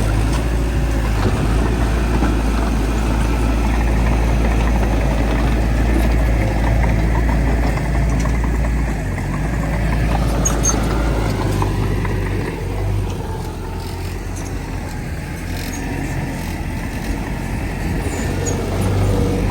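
Heavy diesel earthmoving engine running steadily, a deep low rumble that eases a little past the middle and builds again near the end, with a few faint metallic clinks.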